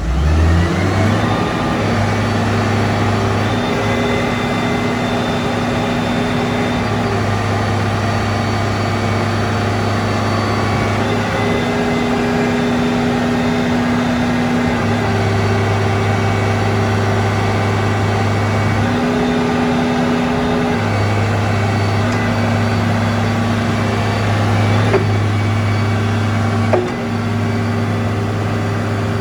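Isuzu 6BG1 inline-six diesel engine of a 12-ton forklift running steadily with a low hum. Its pitch rises briefly right at the start, and two short knocks sound near the end.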